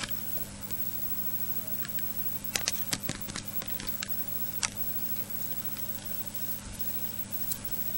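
A few sharp clicks or taps, a quick cluster about two and a half seconds in and a single one near the middle, over a steady low electrical hum.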